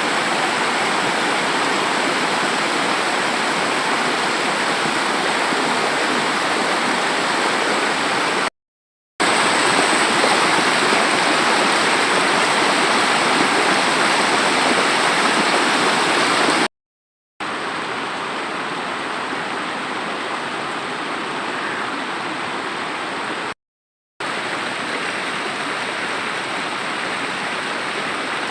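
Floodwater of the Kali Gandaki river in spate, rushing steadily. The sound is broken three times by silences of under a second, and the last part is somewhat quieter.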